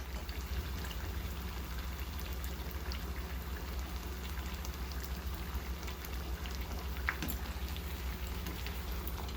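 Spring rolls frying in hot oil: a steady sizzle with scattered small pops and crackles.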